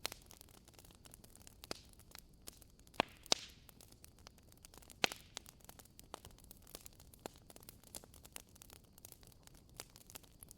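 Wood fire crackling in a fireplace: a steady scatter of small pops, with a few sharper snaps about three and five seconds in, one of them followed by a brief hiss.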